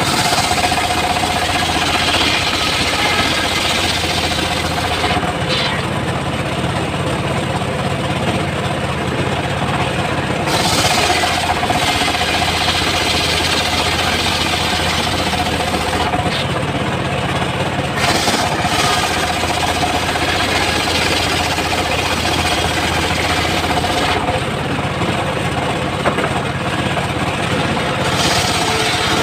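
Homemade circular sawmill running, with a steady low hum and a harsher, higher noise that comes and goes in stretches of several seconds as the blade cuts through teak.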